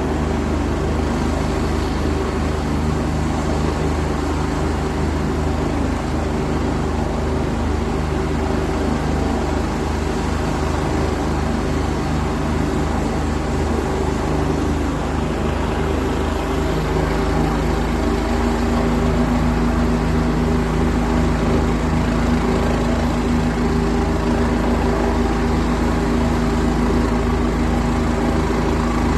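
Helicopter engine and rotor running steadily, with a fast low beat from the rotor. About two-thirds of the way in, the sound grows louder and a new steady hum comes in.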